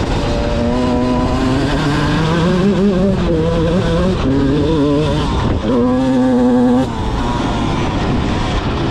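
Motocross bike engine being ridden hard, its pitch climbing and dropping repeatedly as the throttle is worked, with a steady held note about six seconds in that cuts off sharply.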